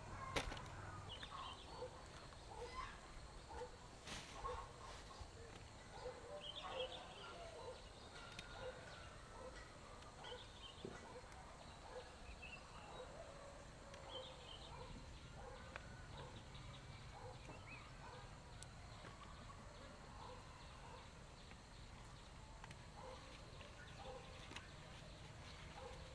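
Faint, scattered short bird calls repeated throughout, with a sharp knock just after the start and another about four seconds in.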